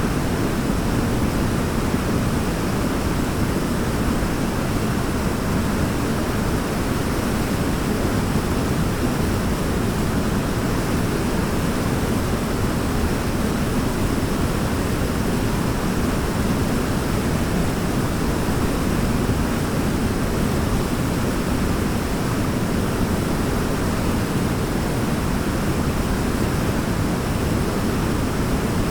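Waterfall rushing steadily: a constant, even noise, heaviest in the low end, with no splashes or changes.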